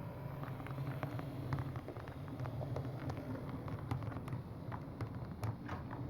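HO scale model train running along the track: a steady low electric-motor hum with many irregular small clicks of wheels passing over rail joints and turnouts.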